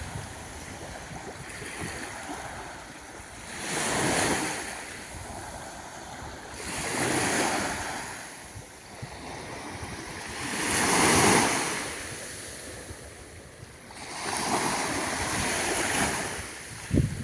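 Small waves washing onto a sandy beach, each swelling up and falling away, about four in all, every three to four seconds, with wind rumbling on the microphone.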